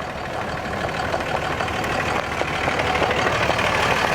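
Vehicle engine and road noise, slowly growing louder toward the end.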